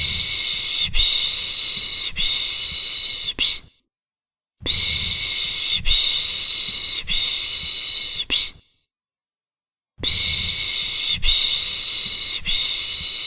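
A person shushing "shhh" to soothe a baby: three long runs of shushing, each pulsing about three times, with about a second's pause between runs.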